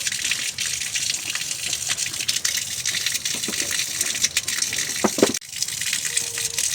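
Water rushing steadily, with many small splashes and drips, fitting heavy rain runoff. It briefly drops out about five seconds in.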